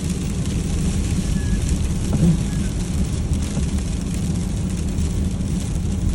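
Pickup truck driving on icy roads, heard from inside the cab: a steady low engine and tyre rumble with an even hiss of freezing rain over it.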